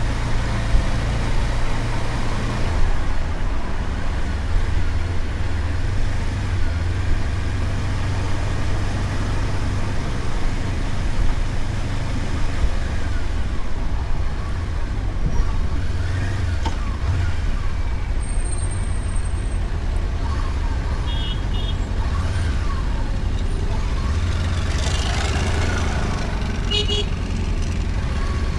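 Motorcycle riding steadily through city streets, a continuous low engine-and-road rumble, with passing traffic and a few short high beeps in the last third.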